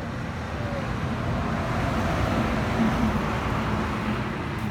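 A road vehicle going past, its rushing engine-and-tyre noise swelling to a peak midway and easing slightly after.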